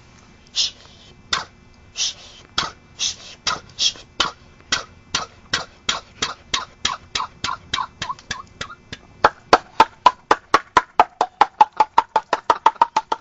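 A person making a series of sharp mouth clicks as a sound imitation. The clicks start about half a second apart and speed up to about four or five a second, growing louder and taking on a short tone about nine seconds in.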